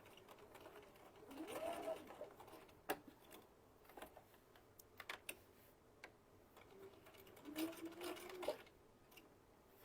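Sewing machine stitching slowly around a curved seam in two short bursts, its motor speeding up and slowing, with a few sharp clicks in between.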